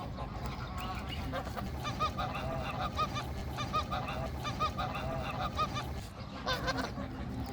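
Geese honking: a quick run of repeated honks, about two to three a second, with another burst of calls near the end.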